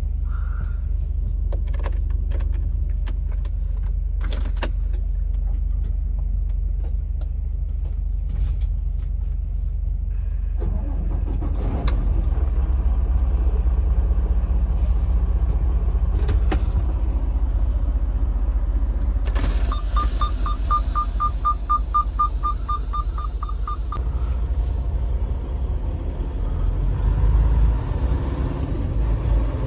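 Semi-truck driving, heard as a steady low engine and road rumble that gets louder about a third of the way in. In the middle it is joined by a few seconds of rapid, regular ticking.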